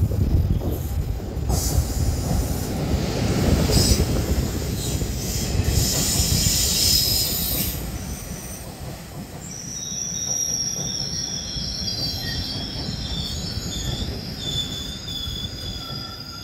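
Taiwan Railway E1000 push-pull Tze-Chiang express running in along the platform and slowing: a loud rumble and rush of wheels on rail for the first eight seconds, then fading. From about ten seconds in, a high, steady squeal from the wheels and brakes holds as the train slows.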